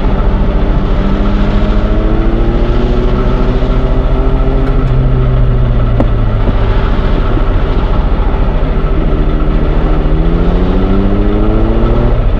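Train engine running loud and steady with a fast, even pulse. Its pitch climbs in the first few seconds, then climbs again over the last three seconds, with a single sharp click about halfway through.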